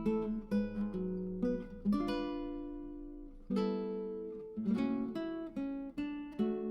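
Background music: acoustic guitar picking and strumming chords, with two longer held chords left to ring about two and three and a half seconds in.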